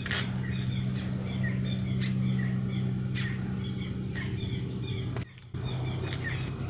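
Small birds chirping again and again over a steady low hum, with a few light clicks; the sound drops out briefly about five seconds in.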